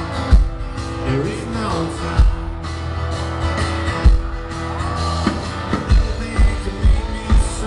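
Live rock band playing, with a male voice singing over guitars and a drum kit; the kick drum thumps about twice a second in the second half.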